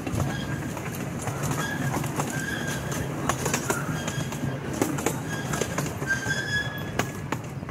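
Small amusement-park train rolling slowly, its wheels giving short, repeated high-pitched metallic squeals and sharp clicks over a low rumble.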